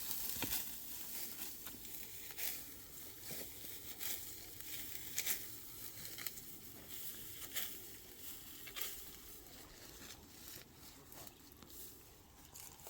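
Irregular dry crackling and rustling, with sharp ticks and snaps coming every half second or so over a steady hiss.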